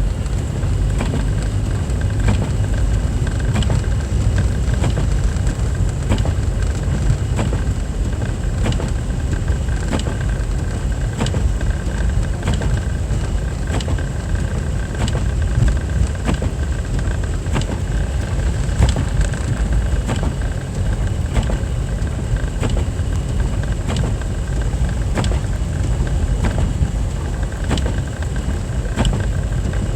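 Car driving, heard from inside the cabin: a steady engine and road rumble with a light click about once a second.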